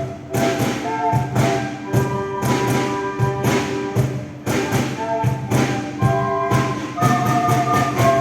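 Keroncong ensemble playing an instrumental passage: a quick, even strummed rhythm under held melody notes. The music stops right at the end.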